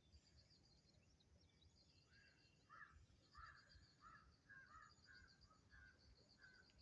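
Rufous treepie calling faintly: a run of about ten short call notes, roughly two a second, beginning about two seconds in, over a steady high chirring of insects.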